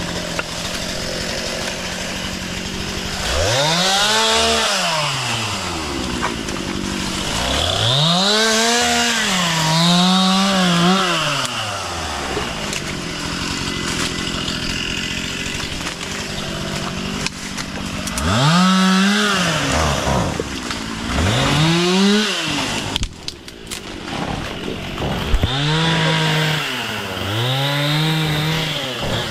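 Two-stroke chainsaw idling, then revved up about five times, each time rising sharply in pitch, holding briefly at full speed and dropping back to idle, as it cuts wood and brush.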